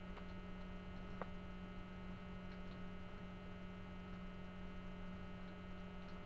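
Steady electrical mains hum with a stack of even overtones, and a single faint click about a second in.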